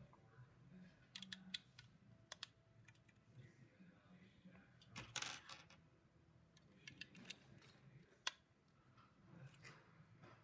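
LEGO plastic bricks clicking and rattling as they are handled and pressed together: scattered faint clicks, with a short burst of clatter about five seconds in and one sharp snap about eight seconds in.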